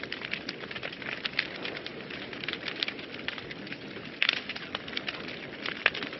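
Wood fire burning in a fireplace: a steady low rush of flames with irregular crackles and pops, a louder pop a little past four seconds in and another near the end.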